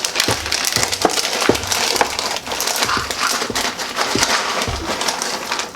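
Dry granola clusters poured and scooped out of a crinkly plastic cereal bag: a dense run of rustling, crackling and small rattling clicks.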